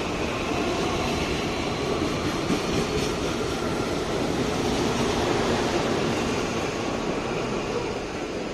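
CPTM electric commuter train running past along the platform: a steady rumble of wheels and running gear that fades near the end as the last car goes by.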